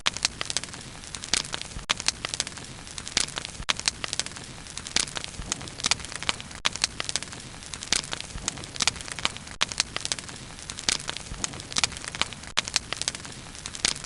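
Bonfire burning, wood crackling and popping irregularly over a steady low hiss of the flames.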